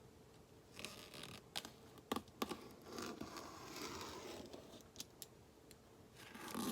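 Box cutter slicing open a package: quiet scraping strokes with scattered clicks and handling knocks.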